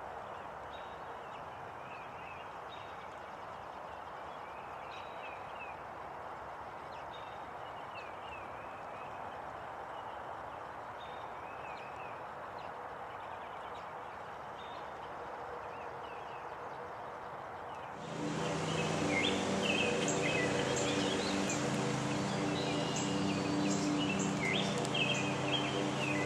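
Small birds chirping and calling over a steady background noise. About eighteen seconds in, everything gets louder: the bird calls are closer and more frequent, over a steady low hum.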